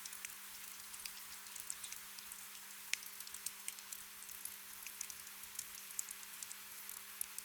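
Soft rain ambience: a steady hiss with many scattered drops ticking, over a faint steady low hum.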